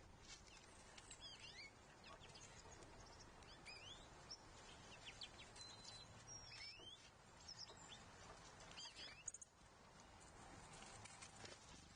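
Faint songbird chirps and short calls, scattered irregularly, over a low steady outdoor background noise.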